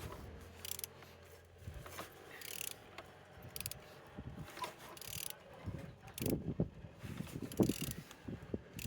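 Opel/Vauxhall Z18XER 1.8-litre four-cylinder petrol engine being turned over by hand at the crankshaft, with irregular mechanical clicks and knocks, heavier from about two-thirds of the way in. The engine turns freely, so it is not seized.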